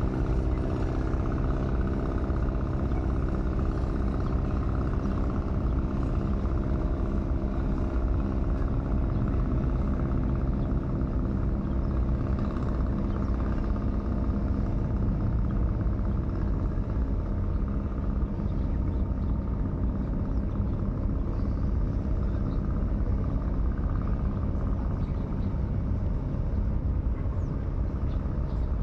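An engine running at a steady speed, giving a continuous low, even rumble.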